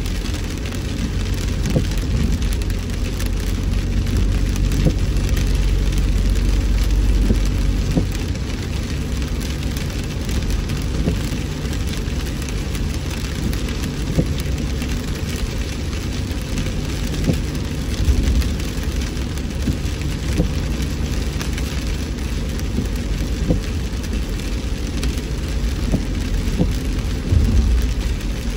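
Rain hitting a car while it drives: many small drop ticks over a steady low rumble of road and engine noise.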